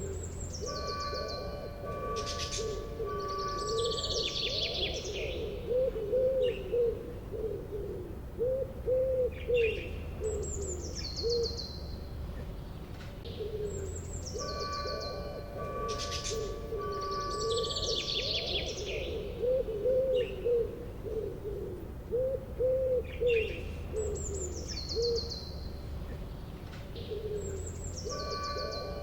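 A looped birdsong background track: quick falling chirp trills over low wavering cooing calls. The same sequence repeats about every 14 seconds.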